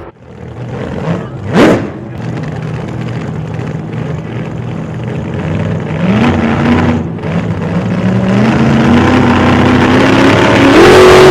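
Car engine accelerating hard, its pitch climbing, falling back and climbing again as it shifts gears. A loud brief whoosh comes about a second and a half in.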